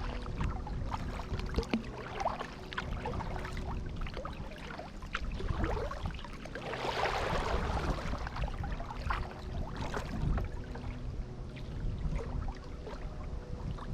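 Kayak paddling on a pond: the paddle dips and pulls through the water with splashing and dripping, and many small knocks. About seven seconds in there is a longer, louder splash.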